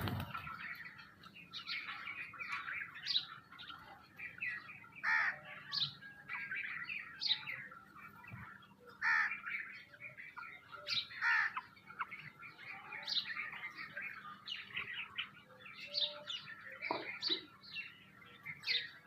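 Small birds chirping and calling, many short calls overlapping with no pause.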